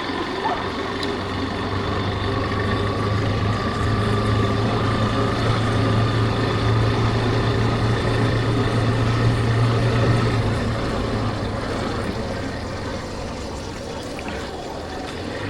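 Yamaha Factor 150's single-cylinder four-stroke engine running steadily under way, with wind and road noise; it grows louder for several seconds, then eases off a little near the end.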